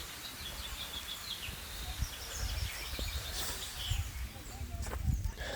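Small birds chirping in quick series of short high notes over a steady low rumble, with a few sharp clicks near the end.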